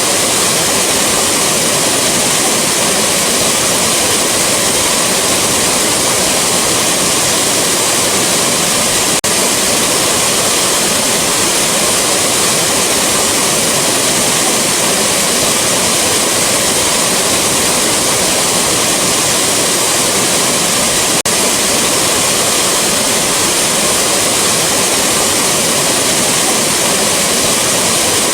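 Rushing waterfall: a steady, loud roar of falling water with no changes in pitch or rhythm. The sound breaks for an instant twice, about nine seconds in and again about twenty-one seconds in.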